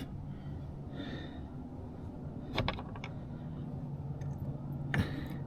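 Light clicks of tools and parts being handled on an outboard's lower unit, a close pair about two and a half seconds in and another near the end, over a low steady hum.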